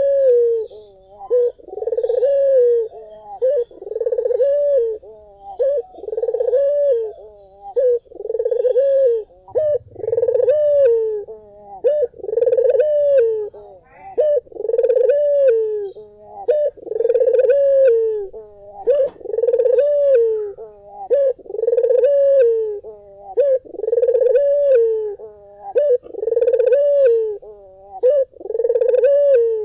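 White Barbary dove (puter) cooing over and over, a rolling coo that rises and falls, repeated evenly about every second and a half.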